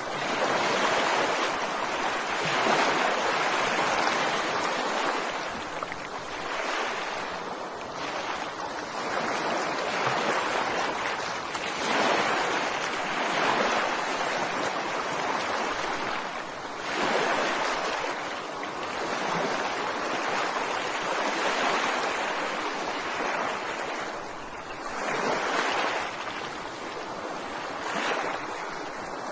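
Ocean waves washing onto a beach: a steady rushing hiss of surf that swells and ebbs every few seconds.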